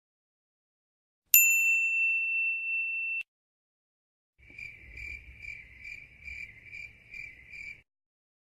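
A single bright "ding" sound effect about a second in, ringing on steadily and then cut off abruptly after about two seconds. After a short pause, a cricket-chirping sound effect: even high chirps about two and a half a second for roughly three seconds, over a faint low rumble.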